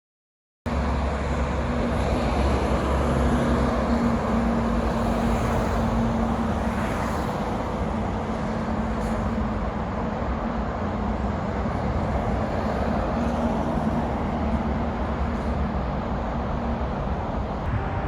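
Steady outdoor ambience dominated by a low rumble of road traffic, beginning abruptly a little under a second in.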